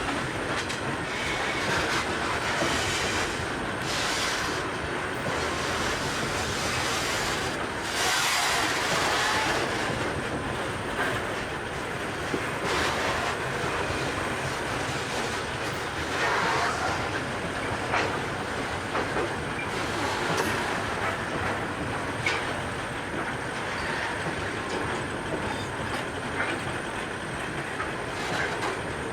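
Grain train hopper wagons rolling past close by, wheels knocking and clattering over the rail joints in a steady run of clicks and thumps, with louder swells now and then.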